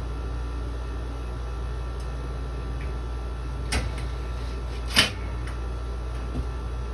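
Two sharp clacks, the louder about five seconds in, with a faint third near the end, over a steady low hum: metal parts of a window air conditioner being handled and knocked together.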